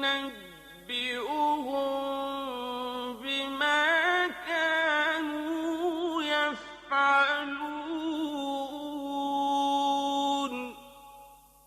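Male reciter's voice chanting Quran recitation in melodic mujawwad style, with long held and gliding notes in drawn-out phrases. The voice stops about ten and a half seconds in.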